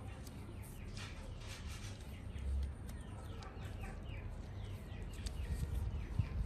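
Small birds chirping repeatedly in short, falling chirps over a low, steady background rumble.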